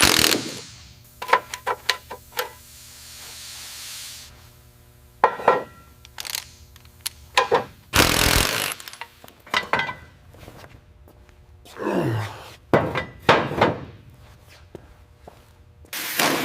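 Workshop work sounds: a string of separate knocks and clicks from tools and parts being handled, with several short rushing, scraping noises in between, the loudest about halfway through.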